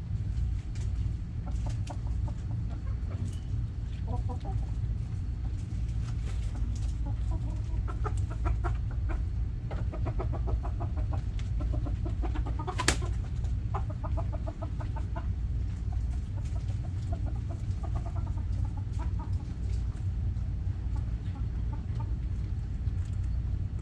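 Backyard hens clucking in quick runs of short calls, busiest around the middle, over a steady low rumble. One sharp click about halfway through.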